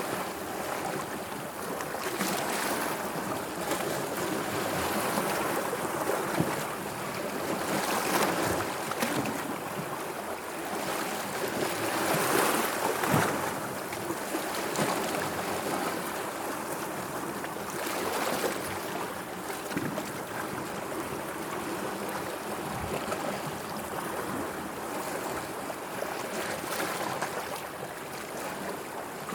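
Sea waves washing in and drawing back, a steady rush that swells and eases every few seconds, loudest about twelve to thirteen seconds in.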